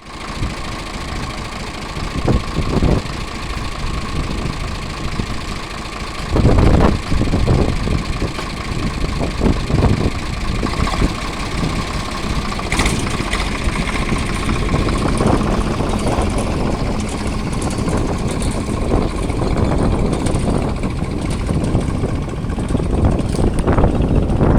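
Tractor engine running steadily, with a few louder knocks along the way, the biggest about six and a half seconds in.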